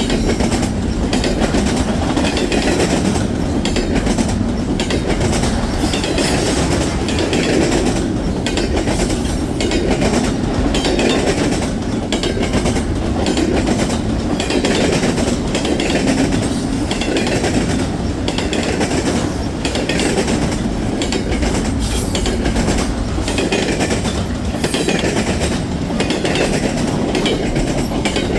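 Freight train cars rolling past in a steady rumble, their wheels clicking rhythmically over the rail joints.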